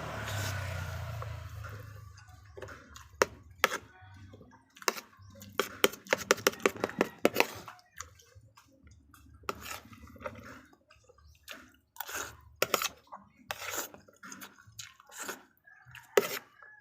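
Close-up eating sounds: a rushing, watery sound over the first two seconds, then irregular clicks and knocks of a utensil against a plate and bowl, mixed with chewing.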